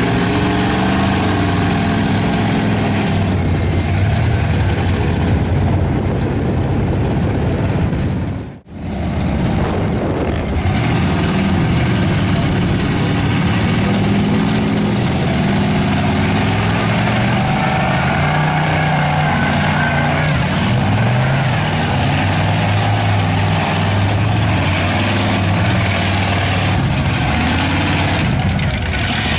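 Big mud truck engine revving up and down repeatedly, with a brief break in the sound about nine seconds in.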